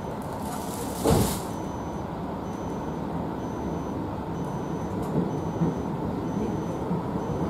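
Cabin noise of a JR Hokkaido 733 series electric train pulling away from the station: a steady rumble and hum, with a short hiss of air about a second in.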